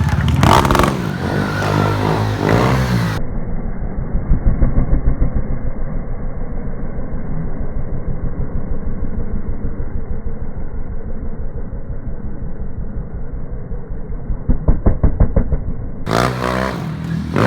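Stunt motorcycle engine running with a fast low pulse, blipped louder about four seconds in and again near the end. It sounds muffled for most of the stretch.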